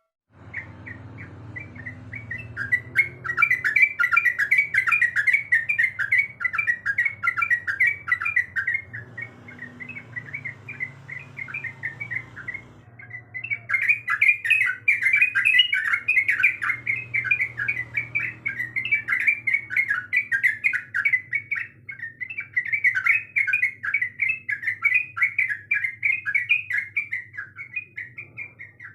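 Yellow-vented bulbul (trucuk) singing in long runs of rapid chattering notes, with a pause of a few seconds in the middle, over a faint low hum.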